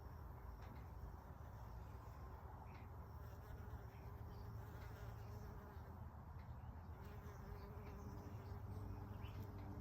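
A bee buzzing faintly as it feeds on tulsi (holy basil) flowers: a low, steady hum.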